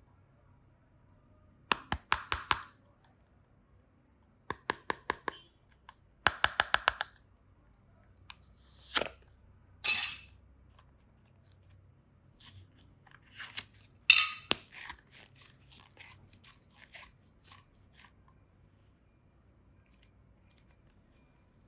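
Clay-mixed slime being handled by hand, giving short bursts of rapid sticky clicks, two brief swishes, and a denser crackling run near the middle that thins out to scattered ticks.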